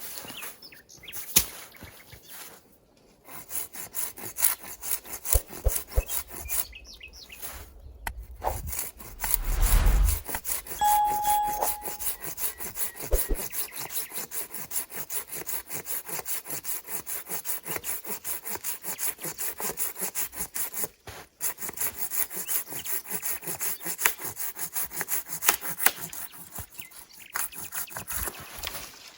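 Hand saw cutting through wood in rapid, even back-and-forth strokes, with a heavier low thump about ten seconds in.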